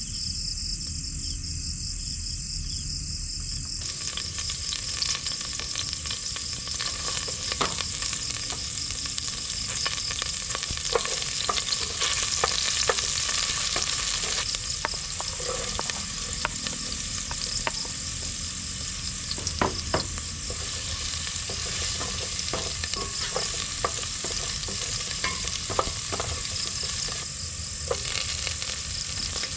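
Food sizzling in a hot pan, a steady hiss with scattered pops and crackles, starting about four seconds in. Crickets chirp steadily before that.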